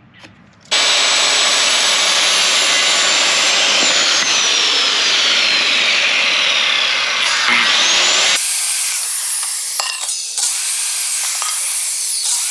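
Power saw cutting wood, shortening the coop's wall framing: a loud, steady run that starts abruptly about a second in. About two-thirds of the way through, the sound changes suddenly and its deepest part drops away.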